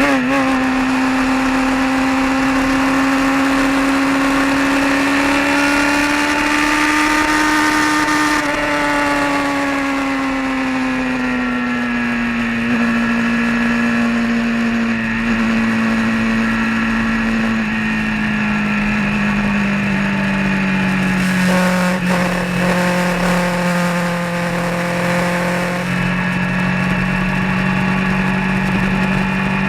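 Vehicle engine running at a steady cruise on the road, its pitch rising slightly, then easing down and settling lower about halfway through, with a steady rush of wind and road noise.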